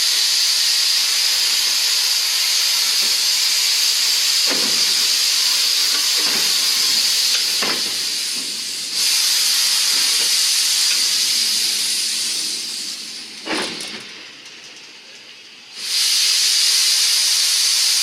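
A loud, steady venting hiss of pressurised gas at a rail yard. It dips briefly about halfway through, fades down near the end and then comes back suddenly. A few dull knocks are heard along the way.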